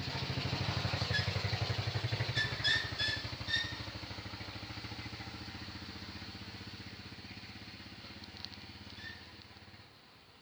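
A motorcycle engine going by, loudest about two seconds in and then fading away until it is gone near the end. A few short high chirps sound over it between about one and four seconds in, and once more near nine seconds.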